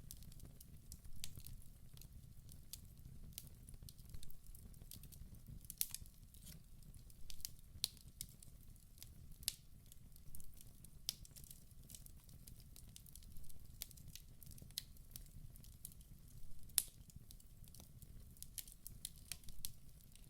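Wood fire burning in a fireplace: irregular sharp crackles and pops, a few louder ones, over a low steady rumble of the flames.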